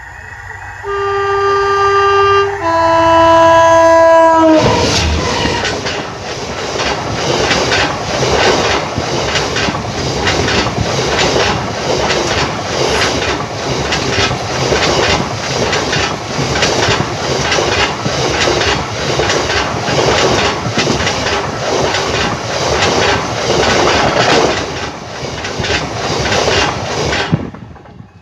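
GBRf Class 66 diesel locomotive sounding its two-tone horn, a higher note then a lower one, then the train rolling past close by with a steady rapid clicking of wheels over rail joints, which stops abruptly near the end.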